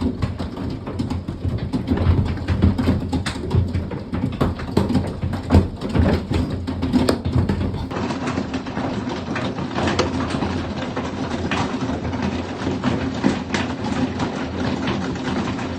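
Large hailstones pelting a house in a dense, irregular clatter of hard impacts, some hits louder and sharper than the rest.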